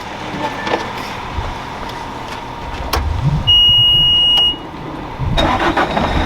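A single loud electronic beep, held steady for about a second in the middle, over the low rumble of a vehicle engine running, with a few sharp clicks.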